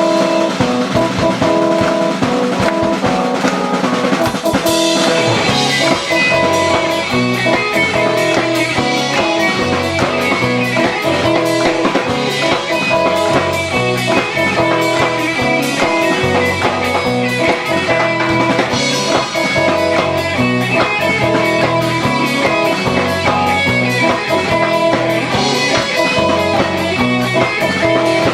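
Live rock band playing, with guitars over a drum kit keeping a steady beat.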